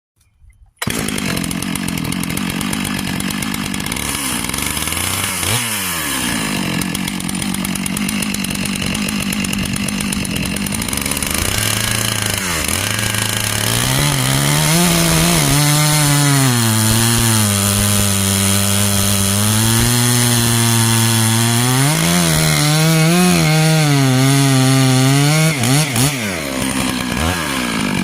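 Stihl MS661 Magnum two-stroke chainsaw starting up about a second in and running at high speed. About halfway through, its pitch drops and wavers as it labours under load, typical of the chain biting into wood.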